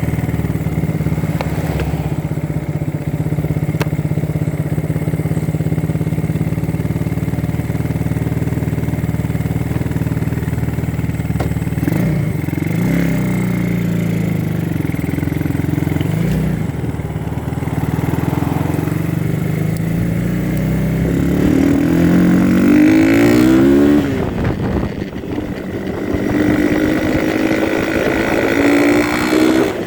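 Motorcycle with a Chinese 300 cc engine running steadily at idle, then revved briefly twice. It then climbs in pitch as it accelerates, drops sharply about 24 seconds in at a gear change, and climbs again.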